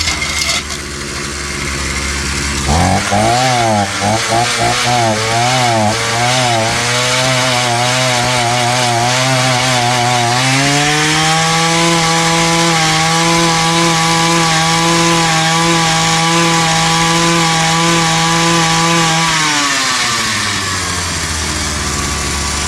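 Small two-stroke tiller engine running: low idle at first, then about three seconds in it speeds up with a wavering, hunting pitch for a few seconds before steadying. About ten seconds in it rises to a higher steady speed, and near the end it drops back to a low idle.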